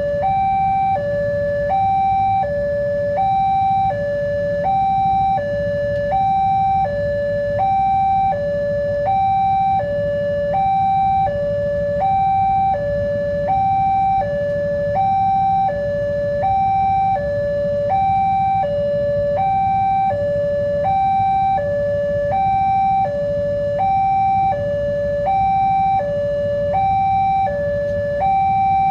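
Railway level crossing warning alarm sounding a two-tone electronic signal that alternates evenly between a higher and a lower pitch, about a second each, repeating steadily: the crossing is warning of an approaching train.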